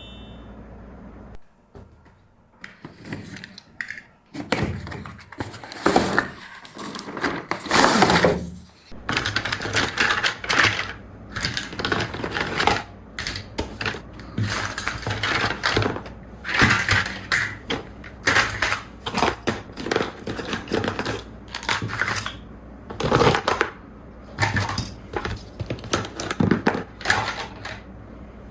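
Hands handling plastic toys and packaging: irregular clicks, knocks and crinkling rustles, with a longer stretch of rustling about five to nine seconds in.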